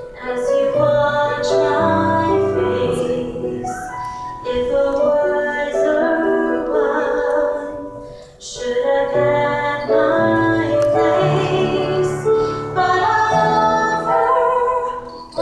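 A woman singing solo over an instrumental accompaniment, in sung phrases with short breaths about four and eight seconds in.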